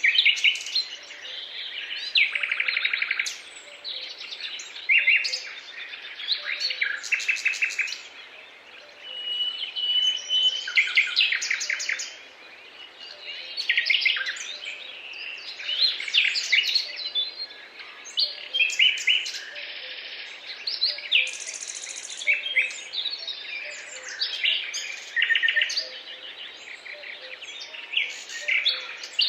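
Songbirds singing and calling, with many overlapping chirps and rapid trills and one longer level whistle about a third of the way in, over a faint steady background hiss.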